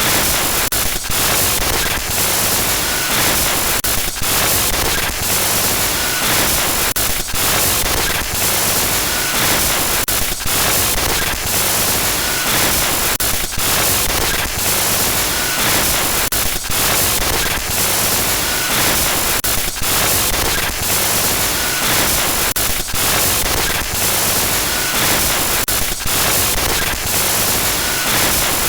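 Loud electronic glitch noise: dense static hiss broken by brief stuttering dropouts, the pattern repeating about every three seconds.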